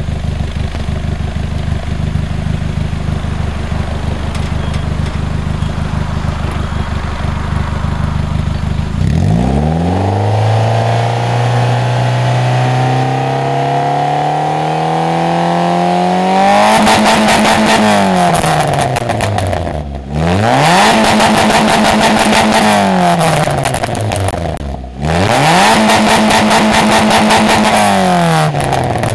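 Peugeot 206 CC engine through an aftermarket sport exhaust, idling steadily, then revved slowly up over several seconds and held high. Twice more the revs drop and are quickly pushed back up and held.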